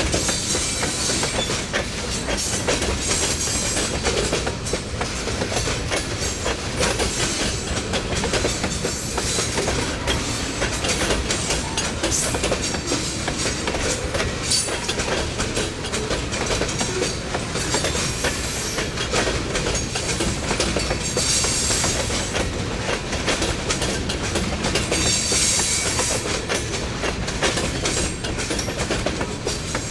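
A passing train's cars rolling by at steady speed, wheels clicking over the rail joints, with a brief higher-pitched hiss or squeal from the wheels a couple of times in the second half.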